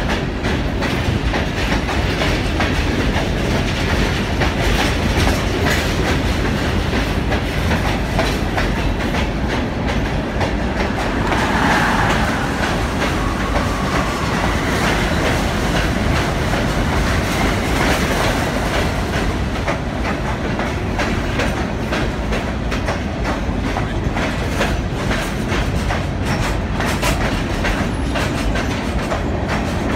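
Freight train's open-top hopper cars rolling past close by, steel wheels clattering steadily over the rail joints. From about 11 to 18 seconds in, a passing Amtrak Northeast Regional passenger train on the next track adds a brighter rush.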